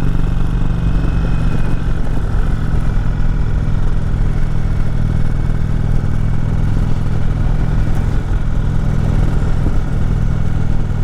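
Indian Chieftain Dark Horse motorcycle's V-twin engine running steadily as the bike climbs a steep mountain road, with a haze of road noise over the engine.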